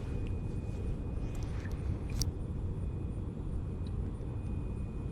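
Low, steady rumble of wind buffeting the microphone, with a faint click about two seconds in.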